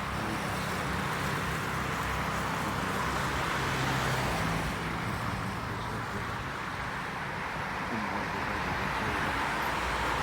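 Road traffic from nearby cars: a steady rush of tyre and engine noise that swells gently as vehicles pass.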